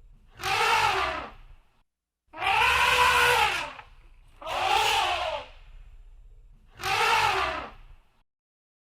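Elephant trumpeting: four harsh blasts, each about a second and a half long, rising and then falling in pitch, with short pauses between them.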